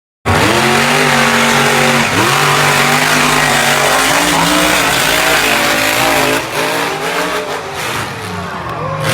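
Monster truck engine running hard and revving, its pitch dropping and climbing again several times. It starts abruptly about a quarter second in.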